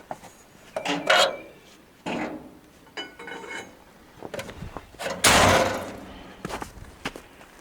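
Scattered knocks and scrapes, with one louder rushing scrape lasting about half a second about five seconds in.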